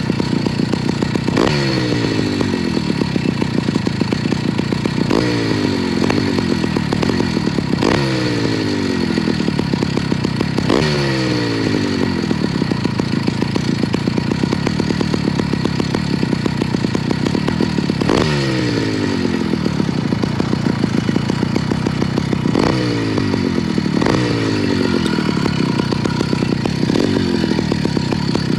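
Motorized bicycle engine running under way. About eight times the revs drop off, falling in pitch over a second or two, before picking up again.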